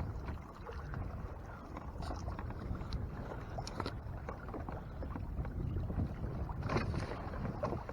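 Water sloshing against a kayak's hull as it moves under way, with a steady low wind rumble on the microphone and a few faint splashes.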